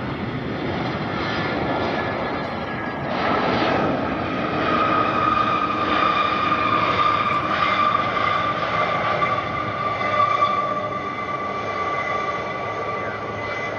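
Heavy jet airliner on its landing roll, its engines giving a steady rushing noise that swells about three seconds in, with a whine that drops slowly in pitch.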